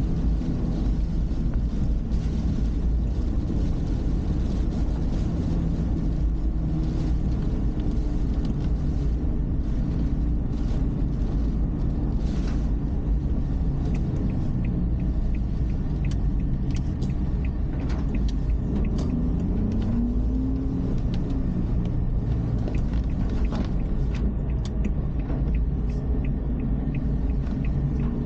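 A car's engine and road noise heard from inside the cabin, a steady low rumble; around twenty seconds in the engine note rises briefly as the car picks up speed.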